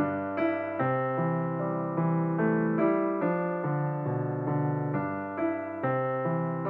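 Background electric piano music, a steady run of notes changing about two to three times a second.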